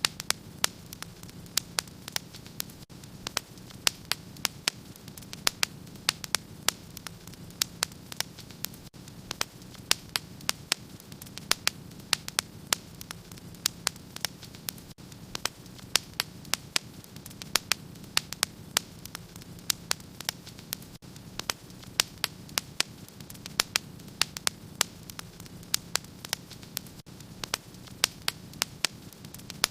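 Wood fire in a fireplace crackling, with frequent irregular sharp pops and snaps over a low steady hum.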